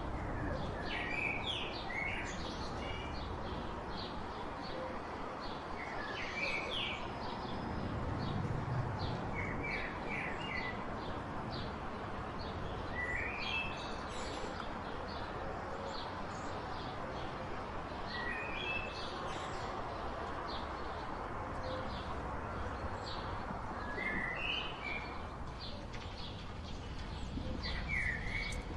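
Songbirds chirping in short bursts of quick, high notes every few seconds, over a steady background hiss.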